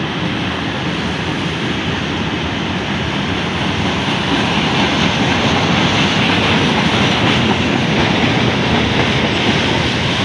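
Freight train passing close by below, its wagons' wheels rolling over the rails in a steady loud rumble that grows a little louder about four seconds in.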